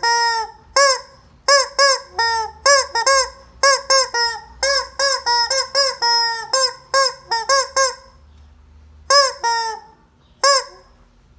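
Rubber squeeze-chicken toy squawking again and again in quick honks, each rising then falling in pitch. The squawks come in a dense run, pause about eight seconds in, then a few more follow.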